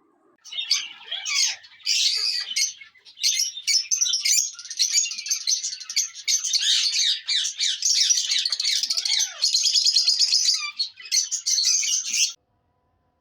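Green parrots (raw parrots, i.e. Alexandrine parakeets) chattering and squawking in a dense run of high-pitched calls, which stops abruptly near the end.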